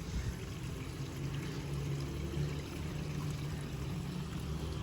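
Water pouring steadily from a garden hose pipe into a soil irrigation channel.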